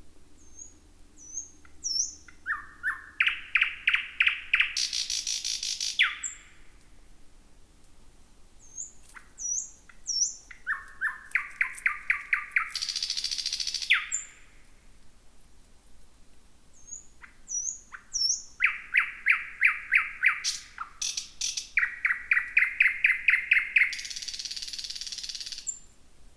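Thrush nightingale singing three song phrases. Each phrase opens with a few thin, high whistled notes, goes into a fast run of loud, repeated clucking notes at about five a second, and ends in a harsh rattle. The last phrase is the longest and has two runs of repeated notes.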